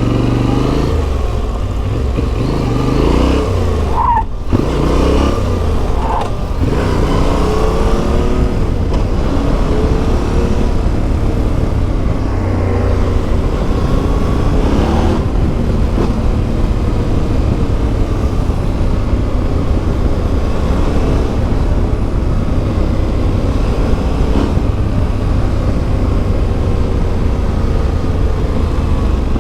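Yamaha Ténéré 700's CP2 parallel-twin engine through an Akrapovic exhaust, riding under way. The engine note rises and falls with throttle and gear changes in the first several seconds, with a brief dip about four seconds in, then holds a steady cruise.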